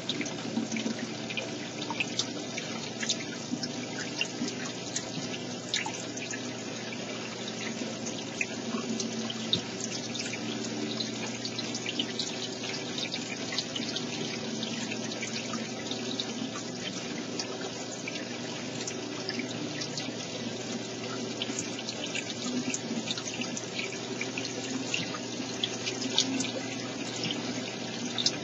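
Water running and trickling steadily, with many small drips and splashes.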